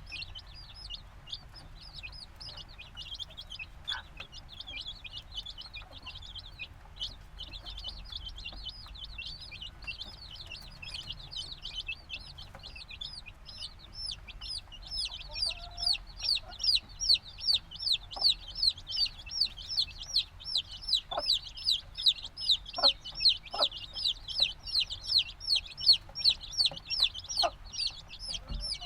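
A brood of chicks a few days old peeping nonstop, many short, high, falling peeps overlapping. From about halfway one chick's peeps come louder and more regular, two to three a second.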